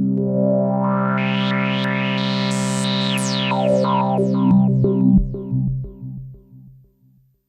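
Sequential Prophet-6 analogue polyphonic synthesizer playing a factory preset: a sustained chord whose filter opens and brightens, then closes with falling sweeps. It dies away to silence over the last couple of seconds.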